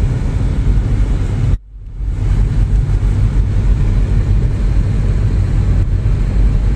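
Steady low rumble of a car driving, the engine and road noise heard from inside the cabin. The sound cuts out abruptly for a moment about one and a half seconds in, then returns.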